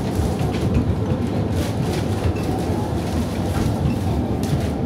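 Heritage railway carriage running along the line, heard from on board: a steady rumble of wheels on rail with a few faint clicks.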